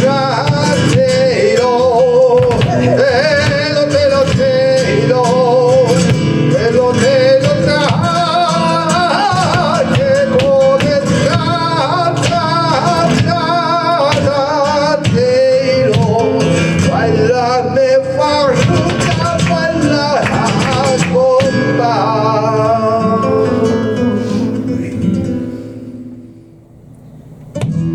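Flamenco farruca: a singer's wavering, ornamented melody over flamenco guitar, with sharp percussive strikes throughout. The song fades out about three-quarters of the way through, and the music drops low before the guitar comes back in at the very end.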